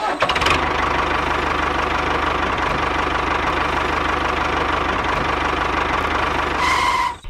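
Tractor engine running steadily with a rapid, even knock. A short higher tone sounds near the end.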